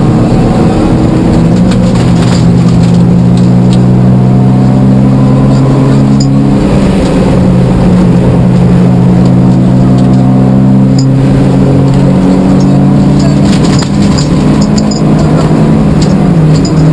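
Rally car engine running hard, heard from inside the cabin, its pitch holding steady and then jumping to a new level every few seconds.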